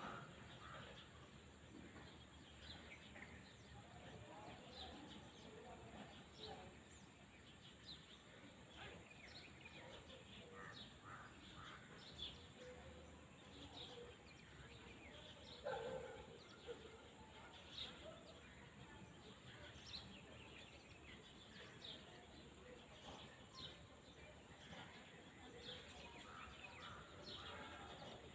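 Faint open-air ambience of birds chirping on and off throughout, with one louder, lower call a little past halfway.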